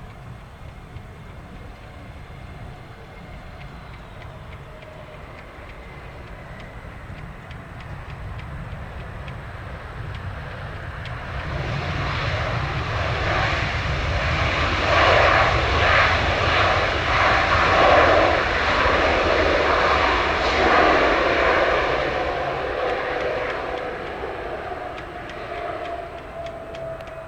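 Jet airliner taking off and passing overhead, most likely a Spirit Airlines Airbus A320-family jet: engine noise swells to a loud peak around the middle, then fades, with a tone sliding down in pitch near the end.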